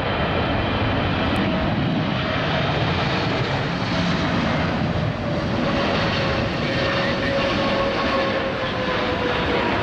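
Boeing 777-300ER jet airliner's GE90 engines running close by, a steady loud noise with a faint whine that slowly falls in pitch as the aircraft passes.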